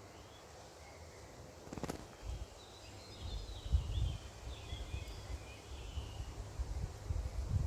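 Small birds chirping and twittering faintly in the middle of the stretch. Gusts of wind buffet the microphone with low, uneven rumbling from about two seconds in, and a single sharp click comes just before.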